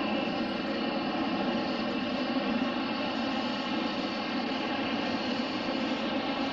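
Aircraft engine noise, running steadily without rising or falling: a constant rush with several held tones through it.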